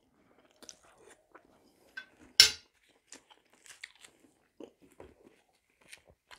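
A person chewing food close to a clip-on microphone: soft, scattered mouth clicks and chewing noises, with one sharper click about two and a half seconds in.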